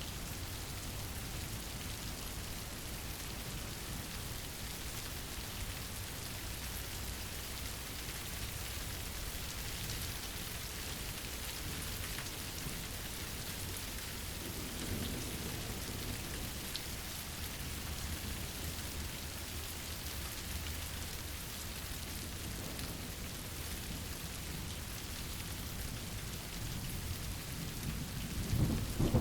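Steady rain falling, with a low rumble of thunder building up near the end.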